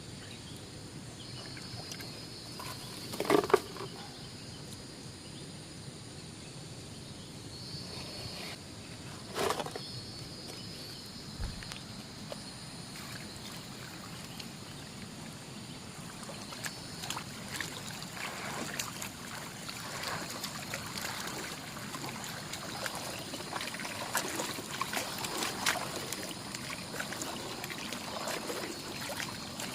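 Water trickling and splashing as gravel and black sand are swirled in a gold pan, with two louder sharp sounds about three and nine seconds in and busier small splashes through the second half.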